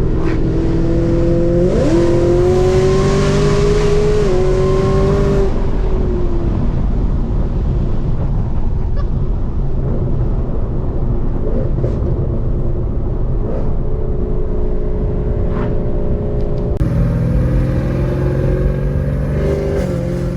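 Camaro ZL1 1LE's supercharged V8 through headers and a Corsa Extreme exhaust, accelerating hard: the engine note climbs sharply about two seconds in and holds high for a few seconds. It then drops off and runs at a lower, steady speed, and picks up again near the end.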